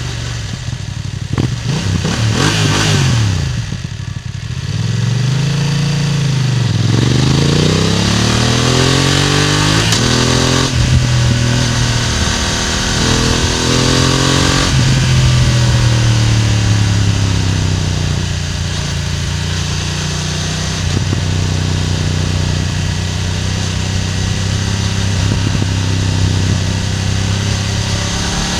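BMW F900R parallel-twin engine heard close at the exhaust while riding. The revs rise and fall several times through gear changes, then settle to a steady cruise from about halfway.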